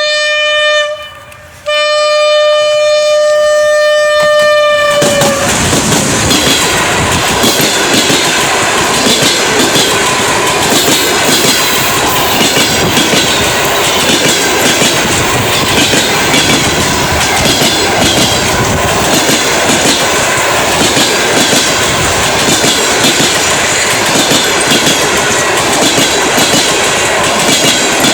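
Passenger train's horn: one blast ends about a second in, and a longer second blast of about three and a half seconds follows, dropping slightly in pitch as it stops. The express train then passes close by, with its wheels clattering over the rail joints.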